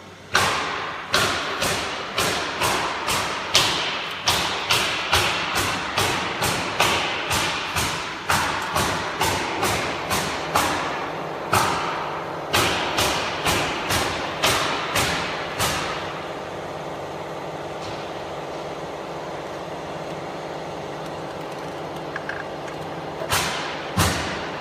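Repeated sharp knocks, about two a second, each with a short ringing tail, over a steady machine hum. The knocks stop about two-thirds of the way in, leaving the hum, and three more knocks come near the end.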